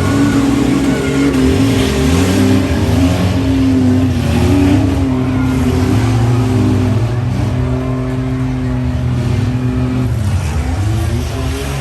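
Engines of several demolition derby vans and trucks running at once and being revved, their pitches rising and falling against each other.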